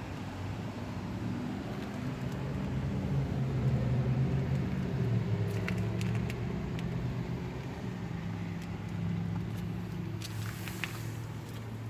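Ford Edge 2.0 EcoBlue twin-turbo four-cylinder diesel running, growing a little louder for a few seconds and then easing back, with a few light clicks near the end.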